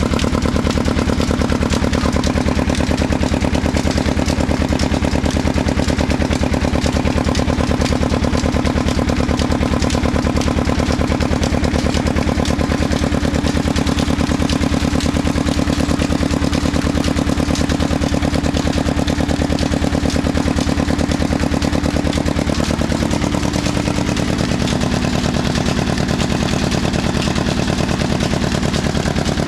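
Old 35 hp diesel engine running steadily with an even, rapid knocking beat as it drives a tubewell pump; its tone shifts slightly about three quarters of the way through.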